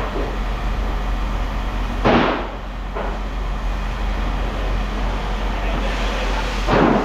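Steady low rumble of running machinery, with two loud, sudden bangs: one about two seconds in and one near the end.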